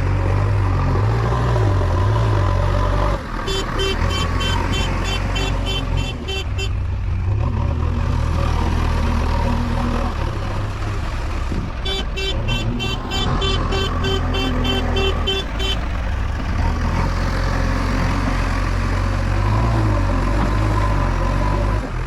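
Diesel engine of a JCB 3DX backhoe loader running under load, its note rising and falling as it revs. A rapid electronic beeping sounds twice, for a few seconds each time.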